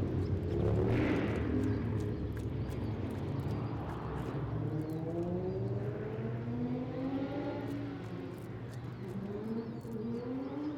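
Road traffic: a motor vehicle's engine accelerating, its pitch rising in a few stretches as it goes up through the gears, over a steady low rumble.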